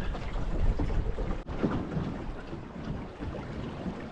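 Outdoor wind rumbling on the microphone over moving river water, with a brief dropout about one and a half seconds in.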